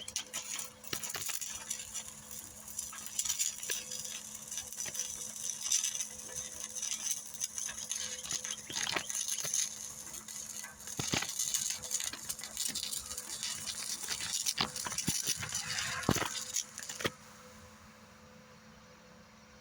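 Stick welder arc burning an E6013 rod on steel: a steady crackling sizzle with scattered sharp pops, cutting off suddenly about seventeen seconds in.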